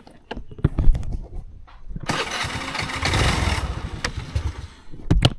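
Motorcycle engine being restarted after stalling: a few knocks and clicks, then a loud spell of engine noise about two seconds in that fades again after a couple of seconds. The bike tends to die right after it is started.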